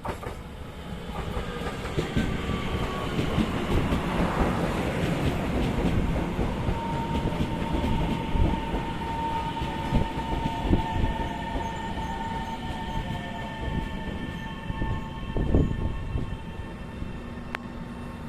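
Train running on the rails, growing louder from about a second in: a rumble with steady high-pitched tones over it, some slowly sliding lower, and a few heavy thumps in the second half.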